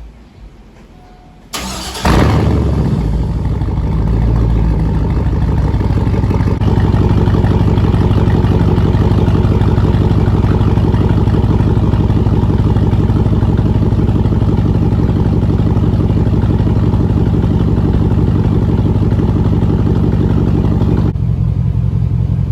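Pickup truck engine cold-started: a short crank about a second and a half in, then it catches and settles into a steady idle. Near the end the sound drops a little in level.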